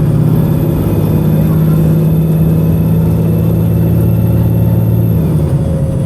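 VDL SB200 single-deck bus engine running hard at full throttle with a steady, held note and a thin high whine above it, both easing off about five seconds in. The engine is misfiring.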